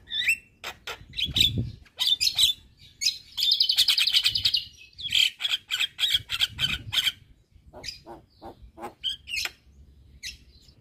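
Javan myna singing a busy, varied song of sharp clicks, short whistles and chatter, with a fast buzzy rattle a few seconds in.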